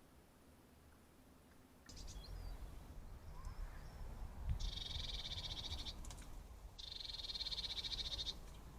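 A small bird's rapid, evenly pulsed high trill, given twice, each lasting about a second with a short gap between, over low outdoor rumble that starts about two seconds in.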